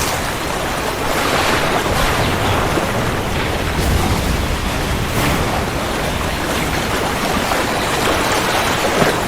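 Steady heavy rain, with a low rumble of thunder swelling about four seconds in.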